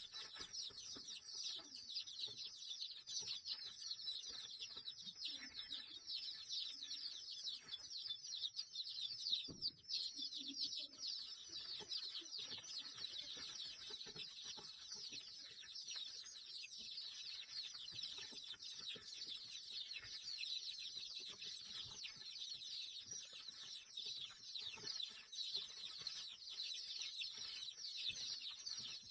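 Many small birds chirping and chattering together in a dense, unbroken chorus of short high calls, with a single knock about halfway through.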